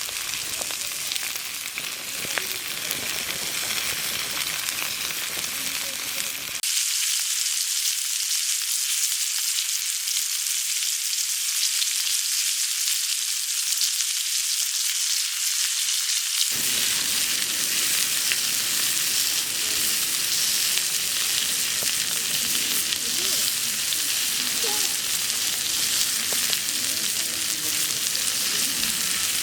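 Meat sizzling steadily in a hot pan. About a third of the way in the sound turns thin and hissy for some ten seconds, then fills out again.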